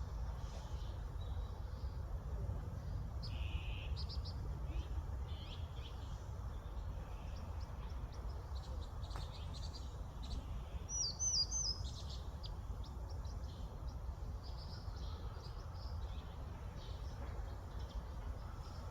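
Songbirds chirping and calling in short, scattered high notes over a steady low rumble. About eleven seconds in, a quick run of about four high, curling notes stands out as the loudest call.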